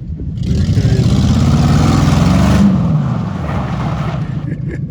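Ford Crown Victoria's V8 with the catalytic converters cut out, accelerating hard: a loud exhaust rising in pitch for about two seconds, then easing off as the throttle comes back.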